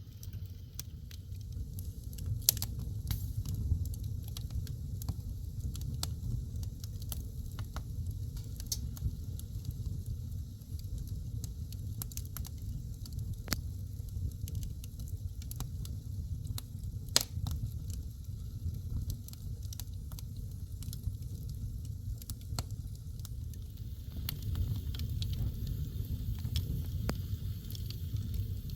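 Wood fire burning in a fireplace, crackling with irregular sharp pops and snaps over a low steady rumble; two pops, about two seconds in and midway, stand out as the loudest.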